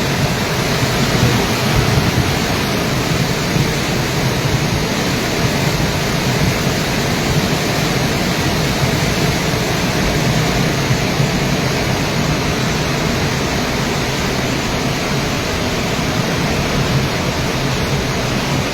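Steady, loud rushing of rain-swollen floodwater in a mountain stream, with no breaks or distinct events.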